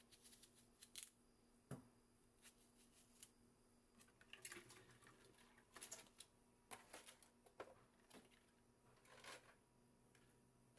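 Faint handling noises in a quiet room: scattered light clicks and rustles over a low steady hum, with a soft knock about two seconds in and a busier run of rustling in the second half.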